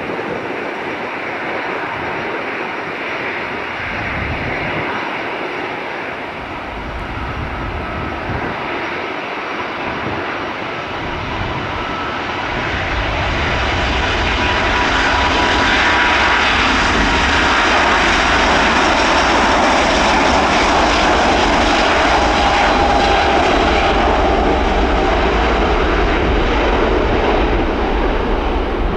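Airbus A350's Rolls-Royce Trent XWB turbofan engines at takeoff thrust: a steady jet noise with faint whining tones that grows louder about halfway through as a deep rumble fills in, then stays loud.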